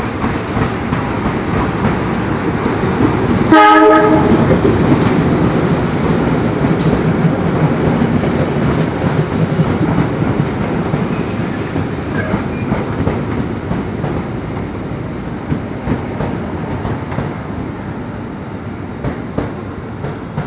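A train hauled by a CC 201 diesel-electric locomotive running past. A short horn blast sounds about three and a half seconds in, then the wheels rumble and clatter over the rails, slowly fading as the train moves away.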